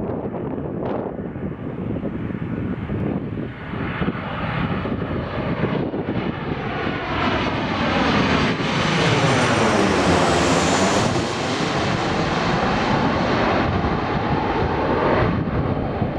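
Boeing 737-800 jet airliner passing on its landing approach: its CFM56 engines swell to their loudest about ten seconds in, with a sweeping whoosh in tone as it goes by, then ease off.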